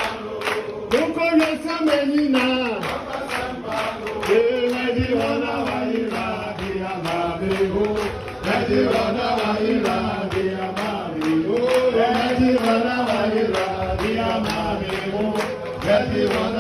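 Voices singing a chant-like chorus over a steady rhythmic beat.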